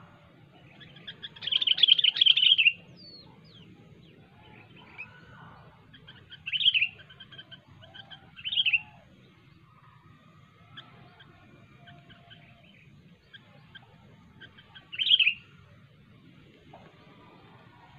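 Sooty-headed bulbul (kutilang) singing. A loud run of rapid chattering notes comes about a second in, then three short, sharp calls spaced a few seconds apart, with fainter notes between.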